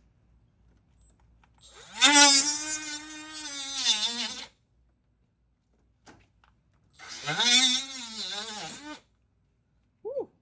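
A handheld power tool is run twice to cut through the truck's factory front bumper. Each time it spins up with a rising whine, then its pitch sags as it bites into the cut, and it stops. A short blip of the trigger comes near the end.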